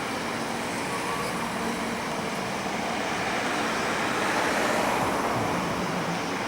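Airbus A320-214 jet engine noise: a steady rushing roar that swells slightly about four to five seconds in.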